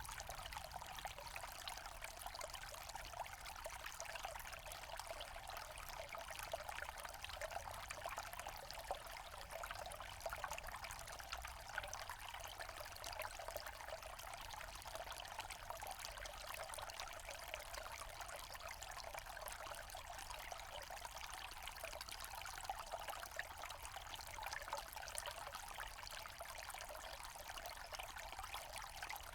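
Small forest stream flowing and trickling steadily over stones, an even rushing babble with no break.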